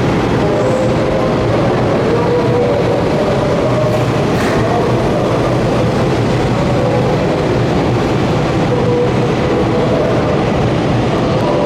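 Electric commuter train moving along the station platform: a steady rumble of wheels on rail, with faint whining tones that come and go.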